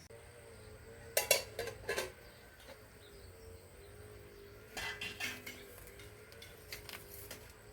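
Dishes and utensils clattering in two short bursts, one about a second in and another about five seconds in.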